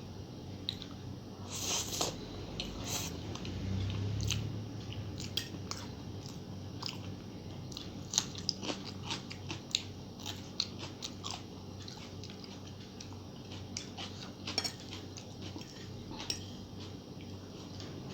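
Close-up eating sounds: biting and chewing on a mouthful of noodles and egg masala, with many short, sharp, crunchy clicks, most frequent in the second half.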